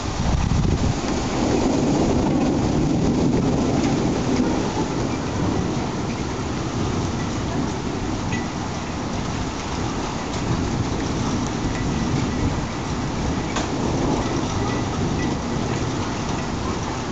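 Heavy wind-driven rain pouring down in a storm, with gusting wind making a low rumble, loudest in the first few seconds and easing slightly after.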